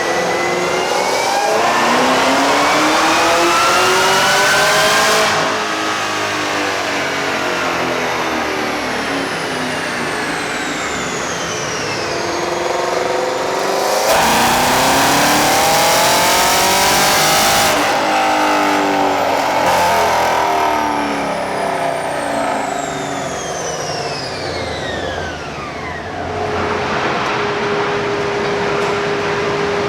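V8 performance car engine on a chassis dyno making two full-throttle pulls. Each time it revs hard up to a loud peak, then winds down in a long falling sweep. It settles to a steady drone for the last few seconds.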